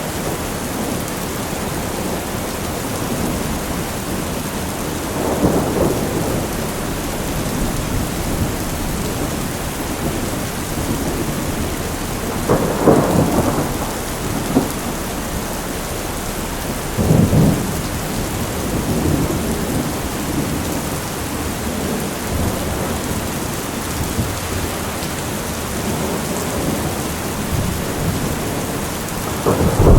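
Heavy rain falling steadily, with rolls of thunder rumbling every few seconds: the loudest about halfway through, and another building near the end.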